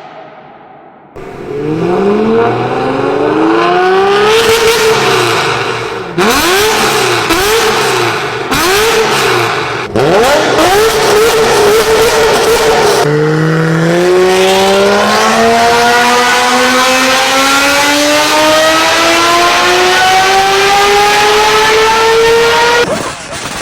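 V12 supercar engine revving hard, in a few spliced clips. First comes a rising rev, then four quick blips that rise and fall, then a held high rev. Last is one long full-throttle pull that climbs steadily in pitch for about ten seconds and cuts off near the end.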